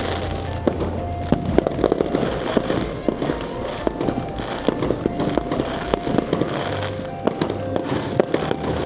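Fireworks going off in a rapid run of sharp bangs and crackles, several a second, over music playing.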